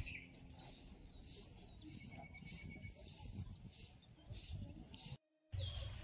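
Small birds chirping in short, quick repeated calls over a low rumbling noise. Near the end the sound drops out for a moment, then faint music comes in.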